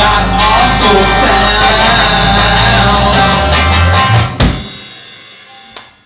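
Noise-rock band playing loud live, with guitars, bass and drums; the song ends on a final hit about four seconds in and the ringing of the instruments fades away.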